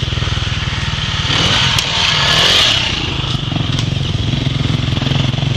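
Dirt bike engine running steadily, briefly louder about two seconds in.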